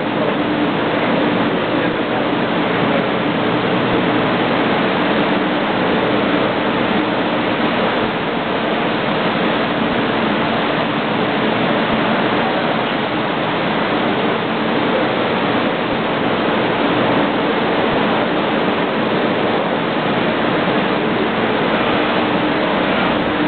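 Steady, loud rushing noise with a faint low hum running under it, unchanging throughout.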